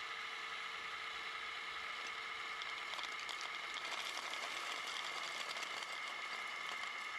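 Radio-controlled model truck running: a steady electric whine, with a patter of small clicks and rattles from about three to six seconds in.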